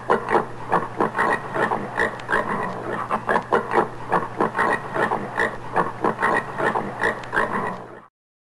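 Common warthog grunting in a rapid series, about three to four grunts a second, cut off abruptly near the end.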